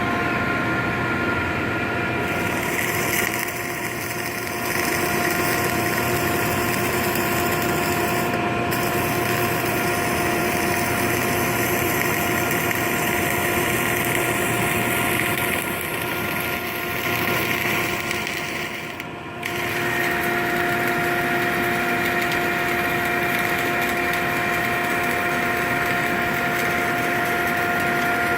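Steady industrial machine noise from welding repair work: a constant hum of several fixed tones under a hissing layer, which drops out briefly about four seconds in and again about nineteen seconds in.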